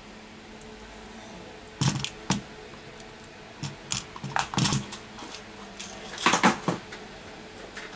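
Small metal tools and parts being handled on a repair bench: three clusters of sharp clicks and light rattles, over a faint steady background with a thin high tone.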